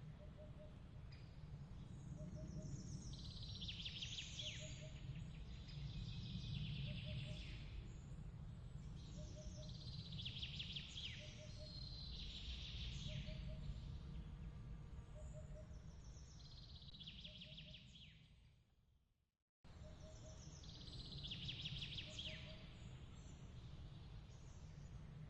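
Looped nature ambience: a bird repeating a short trilling song every two to three seconds over a low, steady rumble, with a soft double chirp repeating about every second and a half. About nineteen seconds in, everything fades out and then starts again abruptly, where the loop restarts.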